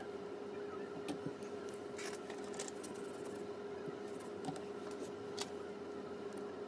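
Light, scattered clicks and rustles of small hand work on a phone, likely fitting new adhesive tape and sealing before reassembly, over a steady electrical hum from the workbench.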